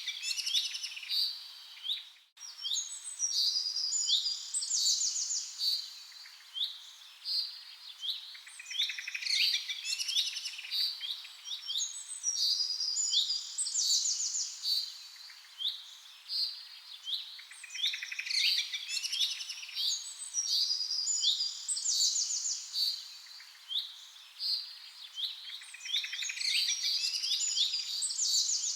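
Several songbirds chirping and singing in overlapping, quick high phrases that repeat every few seconds. There is a brief dropout a little over two seconds in.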